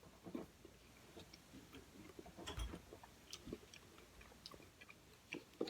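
Quiet chewing and small wet mouth clicks of someone eating cotton candy close to the microphone, with a few soft knocks.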